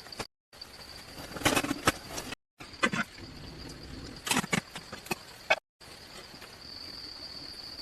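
A steady high insect drone, like cicadas or crickets, under a scattered series of sharp knocks and clacks. The sound cuts out briefly three times.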